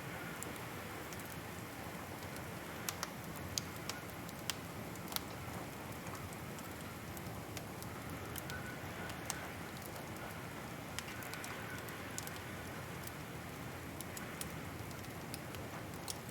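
Wood fire crackling in a fireplace: a steady hiss with scattered, irregular sharp pops.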